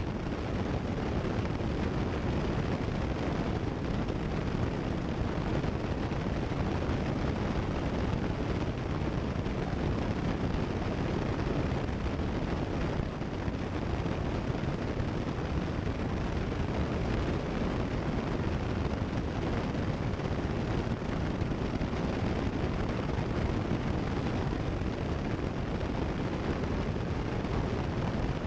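Steady drone of a Cessna 172 Skyhawk's engine and propeller in cruise flight, heard through the cockpit headset intercom audio.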